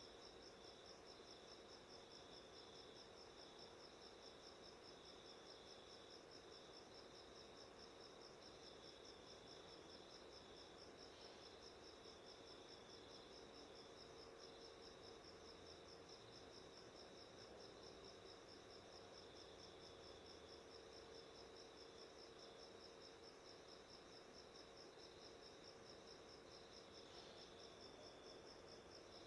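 Faint, continuous high-pitched insect trill with rapid, even pulsing, over a low steady hum; no budgie chatter is heard.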